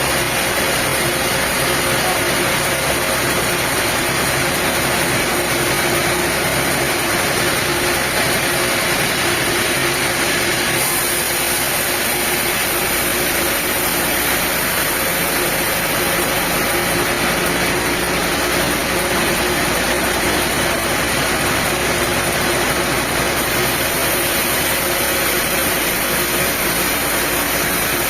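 Sawmill's diesel engine running steadily with a dense, even noise, growing a little brighter and deeper partway through.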